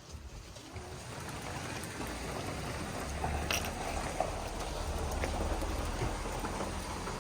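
Hard rain falling: a steady, even hiss with a low rumble underneath and a few scattered drop ticks. It builds over the first couple of seconds, then holds steady.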